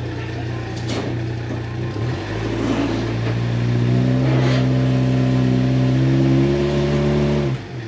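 An engine idling, then revved up about two seconds in and held at higher speed, climbing slightly, for about five seconds before it drops back to idle near the end.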